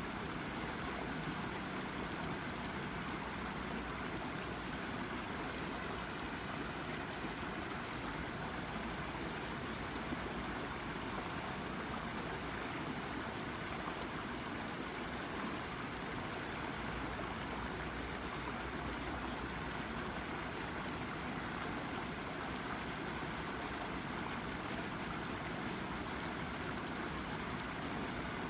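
A small brook babbling and trickling over a rock, a steady, even rush of running water.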